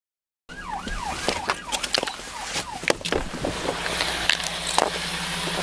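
Audio cuts in on a police siren giving a few quick falling wails, over a vehicle engine idling with a steady low hum. Scattered sharp knocks and clicks run through it.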